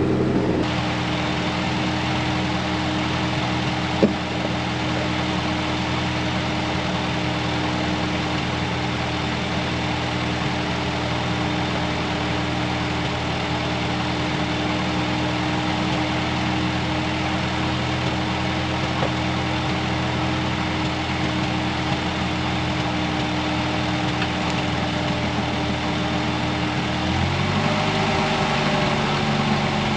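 Ford 8N tractor's four-cylinder flathead gasoline engine running steadily at idle, speeding up slightly near the end, with one sharp click about four seconds in. The owner thinks the engine may need carburettor adjustment or a set of plugs.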